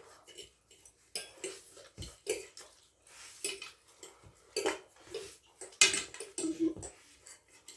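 Cutlery clinking and scraping irregularly against plates as chowmein is eaten fast, with many short clicks in quick succession.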